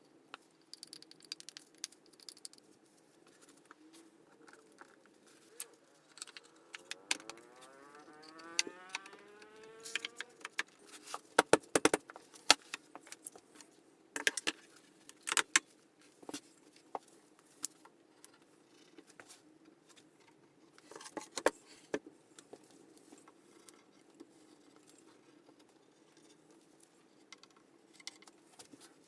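Wooden parts handled and fitted together for a glue-up: scattered light wooden clicks and knocks, with a rising squeak about seven seconds in and a faint steady hum underneath.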